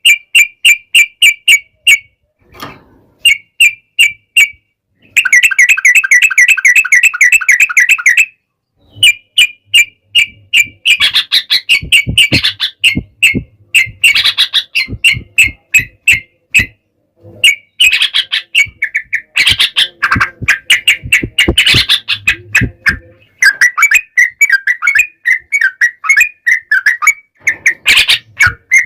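Yellow-vented bulbuls (trucukan) calling in loud, rapid chattering bouts of short repeated notes, with a fast unbroken run between about five and eight seconds in. Later bouts overlap, as if two birds are calling against each other.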